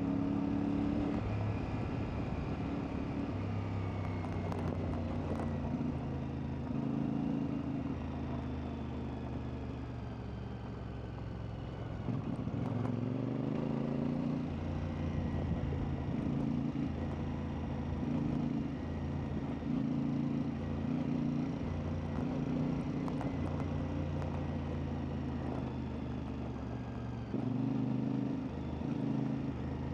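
CFMoto 450MT's parallel-twin engine running while riding, its pitch rising and falling as the throttle opens and closes.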